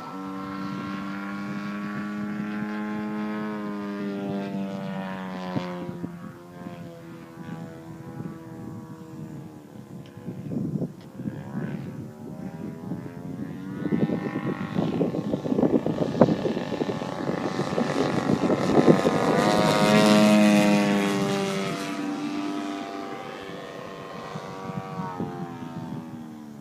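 Propeller engine of a radio-controlled Cap 580 aerobatic model plane in flight, its pitch rising and falling as it passes. The loudest, closest pass comes about 20 seconds in, then the engine fades.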